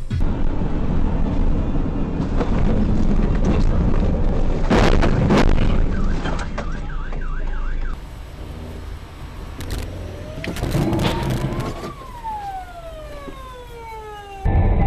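Vehicle and road rumble with a couple of sharp knocks about five seconds in, then an emergency-vehicle siren: a brief fast warble, and later a long wail that rises and then falls.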